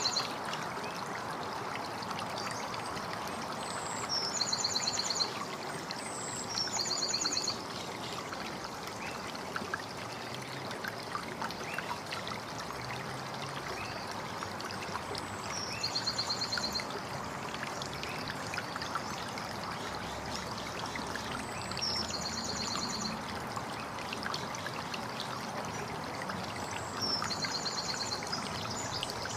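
Steady trickling, running water with a bird calling every few seconds: each call is a short high note followed by a fast, buzzy trill, repeated several times.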